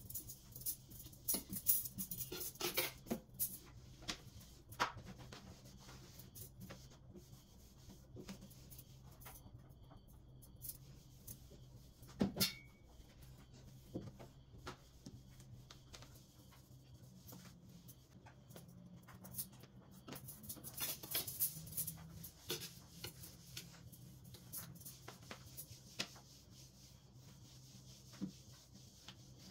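Scattered light clicks, knocks and rustles of household items being handled during cleaning, clustered in the first few seconds and again about twelve and twenty-one seconds in, over a steady low hum.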